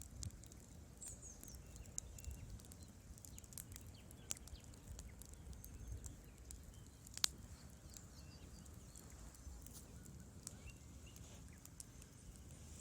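Wood fire in a fireplace crackling: irregular small pops and snaps, one sharper pop about 7 seconds in, over a low steady rumble.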